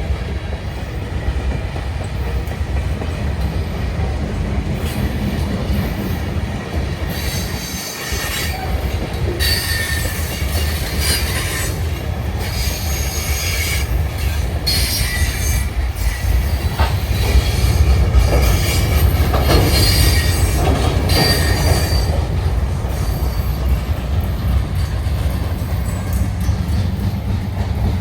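Freight train rolling past close by, a steady rumble of wheels on rail. From about seven seconds in, high-pitched wheel squeal comes and goes. The squeal is loudest a little past the middle.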